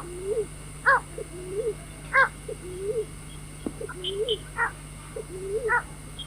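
White-breasted waterhen calling repeatedly: a low rising-and-falling note alternating with a sharper, higher note about once a second, with short high chips in between. A steady low hum runs underneath.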